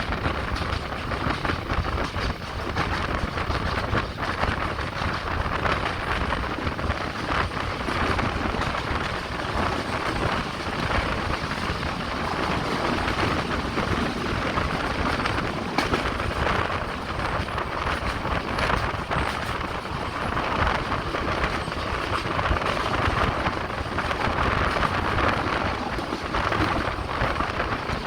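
Express passenger train running along the track, heard from on board: a steady rushing noise of wheels and moving air.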